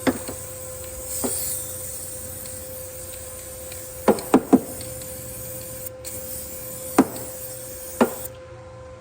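Electric welder's arc hissing steadily on car body metal, breaking off for a moment about six seconds in and stopping near the end. A few sharp knocks come through, three of them in quick succession about four seconds in.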